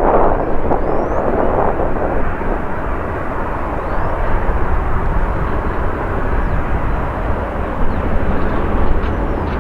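Jet airliner's engines, a loud steady rush of noise that is loudest at the start.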